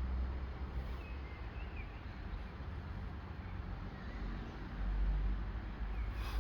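Low rumble of an ET22 electric locomotive and its freight train approaching, growing louder about five seconds in. Birds chirp a few times over it.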